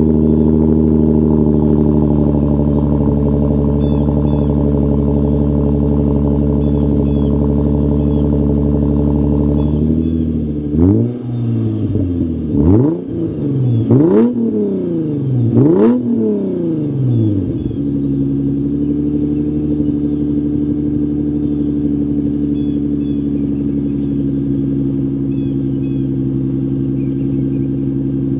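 Lexus RC 350's 3.5-litre V6 idling through a cheap axle-back exhaust with the mufflers removed, then revved four times in quick succession from about ten seconds in, each rev climbing and falling back, before settling to a steady idle; another rev begins right at the end.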